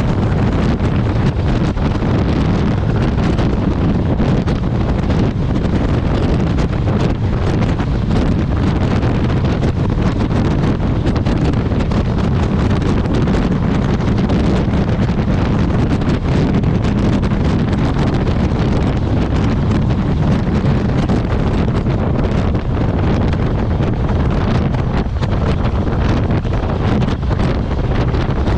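Wind rushing over the microphone of a moving motorcycle: a steady, loud, low rumble of wind buffeting with road and engine noise underneath.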